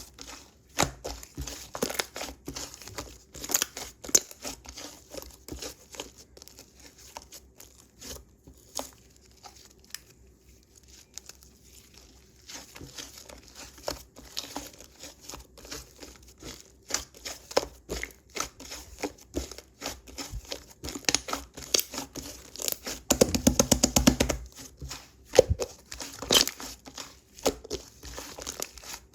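Slime being worked by hand: sticky clicking, crackling and squelching pops as it is stretched and pressed, with a quick run of pops near the end.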